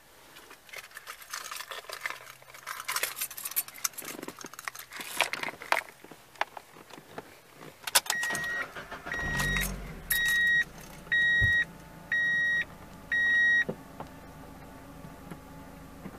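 Keys jangling on a key ring as the key goes into the ignition of a 2002 Mazda MX-5 Miata, then a click as it turns. The 1.8-litre four-cylinder engine starts with a short crank about nine seconds in and settles to a steady idle, while a dashboard warning chime beeps six times.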